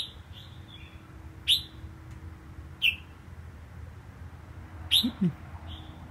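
A caged songbird gives about five short, sharp chirps, a second or so apart, with the last two close together about five seconds in. They are a sign of its growing eagerness to sing.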